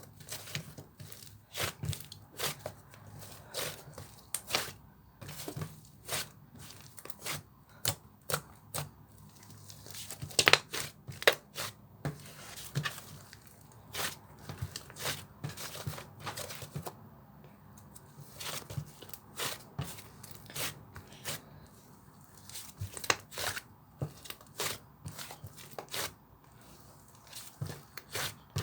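Slime being pressed, stretched and folded by hand, giving irregular sharp pops and crackles, several a second.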